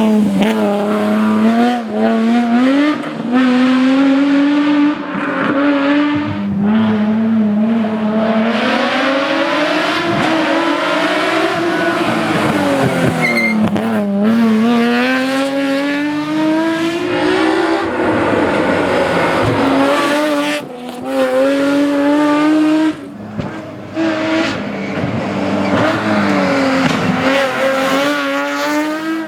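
Nissan 370Z GT+ rally car's V6 engine driven hard: the engine note repeatedly climbs and falls as it accelerates, changes gear and lifts off, with several brief sharp cuts in the sound.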